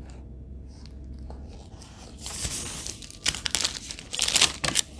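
Packaging crinkling and rustling as it is handled, quiet at first, then several loud bursts in the second half.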